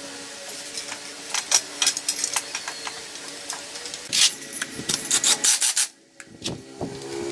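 Irregular scraping and rubbing strokes on a hard surface, with sharp clicks mixed in; they stop briefly about six seconds in.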